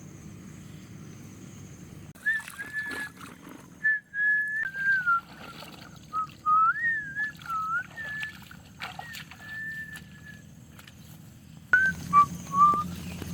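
Whistling of a slow, wandering tune, with held notes and slides between them, beginning about two seconds in, pausing, and starting again near the end. Light knocks and clicks sound around it.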